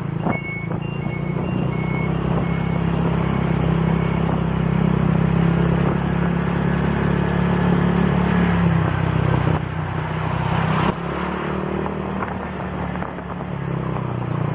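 Honda Click single-cylinder scooter engine with an aftermarket exhaust pipe running steadily while riding; its note drops back about ten seconds in. A series of short, evenly spaced high beeps sounds in the first two seconds.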